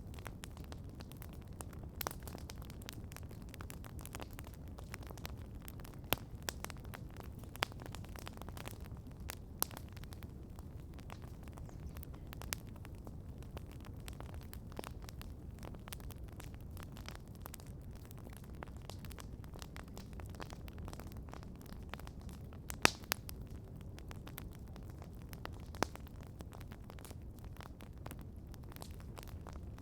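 Campfire crackling: irregular sharp pops and snaps of burning wood over a low steady rumble, with the loudest cluster of pops about three-quarters of the way through.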